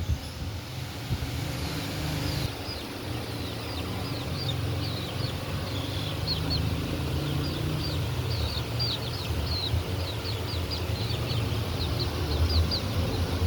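Baby birds peeping: a rapid string of short, high, downward-sliding chirps, several a second, starting a couple of seconds in, over a steady low rumble.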